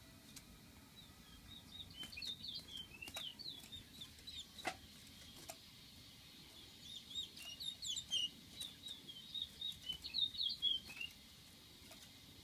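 A bird chattering in rapid high, twisting notes, in two bouts: one starting about a second in and another from about six and a half seconds in, with a few sharp clicks between.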